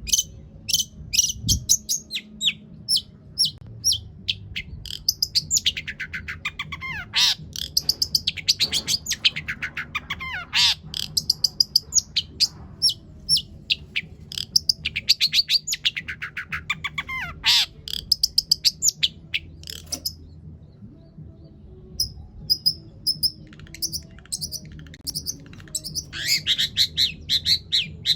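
Long-tailed shrike (cendet) singing a long, fast chattering song of rapid high notes and quick sweeping phrases, its repertoire filled with mimicked calls of other birds. The song pauses briefly about two-thirds of the way through, over a faint low steady hum.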